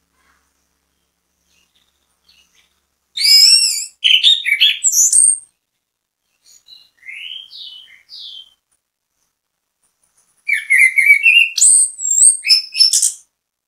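Chestnut-capped thrush (anis kembang) in full song: two loud phrases of rapid, varied whistles and trills, about three seconds and ten seconds in, with a few soft whistled notes between them.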